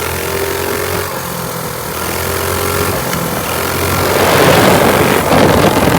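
212cc single-cylinder minibike engine running while the bike is ridden. It gets louder and rougher from about four seconds in.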